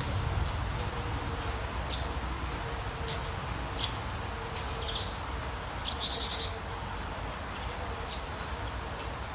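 Songbirds giving short, sharp descending chirps every second or two, with a loud buzzy rattle about six seconds in, over a steady hiss and low rumble of rain.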